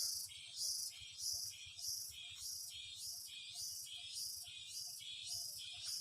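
Insects chirping in a steady, even pulse of about two to three high-pitched bursts a second.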